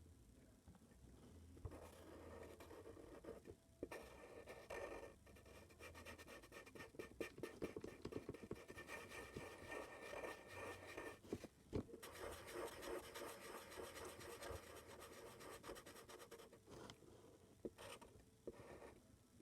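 Faint scratching of a drawing tool on paper in quick, repeated strokes, with a few brief pauses.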